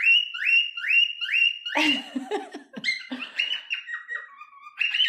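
Cockatiels calling: a quick run of short, rising chirps, about two or three a second. About two seconds in, this gives way to a denser jumble of varied chirps and warbles.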